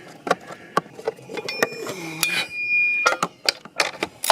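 Ratchet wrench clicking as a bolt is run in and tightened on a push mower, with a high squeal lasting about a second and a half in the middle.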